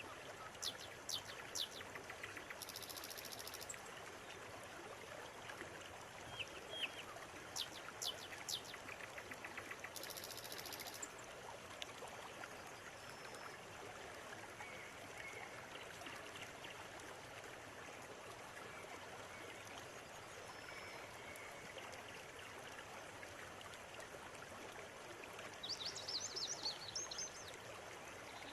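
River water running steadily, with birds chirping over it: clusters of quick chirps about a second in, around eight seconds and again near the end, and two short buzzing calls in the first ten seconds.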